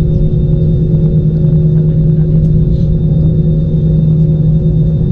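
Steady cabin drone inside an Airbus A320-216 on the ground just after landing: a strong low hum with a few fainter steady tones above it.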